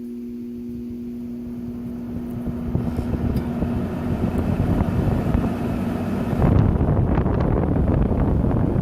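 Arctic King WWK05CM71N window air conditioner running on low fan: a steady motor hum under a rush of blown air that grows louder as the blower spins up.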